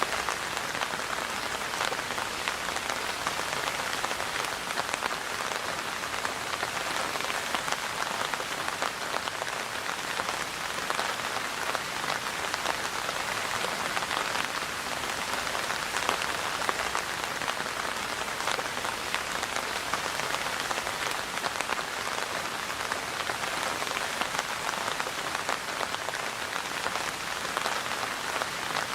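Steady rainfall, a dense patter of many drops hitting a surface, with single drop ticks heard through it.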